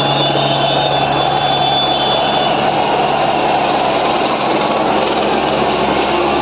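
Helicopter flying low overhead, its engine and rotors making a loud, steady noise.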